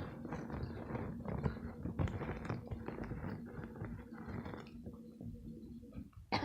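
Homemade glue-and-laundry-detergent slime being squeezed and worked by hand, a wet, sticky crackle of many small pops for about four and a half seconds before it goes quieter. A short, loud falling tone comes right at the end.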